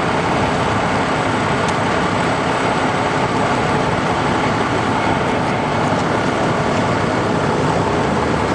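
Air ambulance helicopter's rotor and engine noise: a loud, steady rush.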